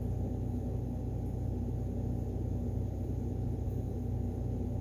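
Steady low room hum with a few faint, unchanging tones.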